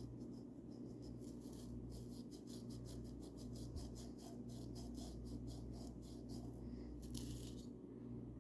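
Paintbrush bristles brushing paint onto a bird house: a quick run of short strokes, about four or five a second, then a longer sweep near the end, over a steady low hum.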